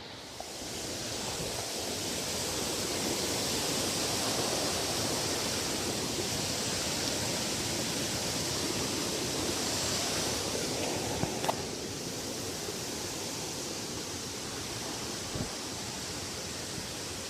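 Waterfall rushing as a steady wash of water noise, with a single sharp click about eleven seconds in, after which it is slightly quieter.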